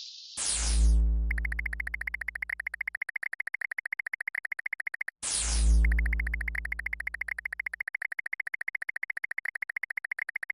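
Synthesized sound effect, played twice: a falling zap over a deep bass boom, followed by a rapid pulsing electronic buzz that cuts off abruptly.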